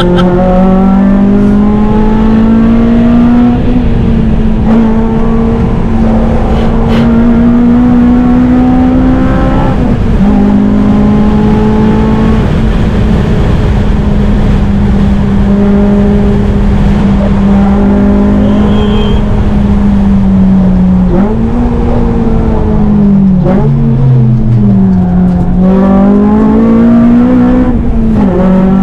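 Honda Civic Type R (FN2) four-cylinder engine running hard at high revs through a Tegiwa cat-back exhaust. The pitch holds nearly steady, dipping and climbing again about ten seconds in and several times in the last third, as with gear changes and braking on track.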